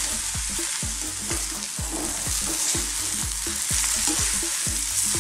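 Cabbage and potatoes sizzling in oil in a frying pan on high heat while being stirred and tossed with a spatula, the strokes coming in a steady rhythm of about three a second over the even sizzle.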